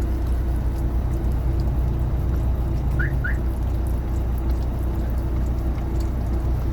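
A Jack Russell terrier licking fruit puree, with small wet licking and smacking sounds over a steady low rumble. Two short high squeaks come about three seconds in.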